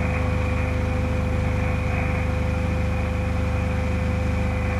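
Open marine radio channel with no one talking: a steady low hum with a constant high-pitched whistle tone over it.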